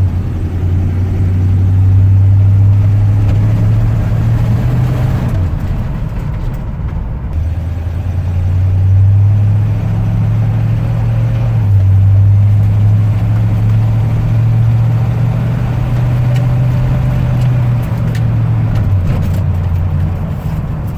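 1974 Chevrolet K10 pickup driving on the road: a steady low engine and drivetrain drone that rises and falls a few times as the throttle or gear changes.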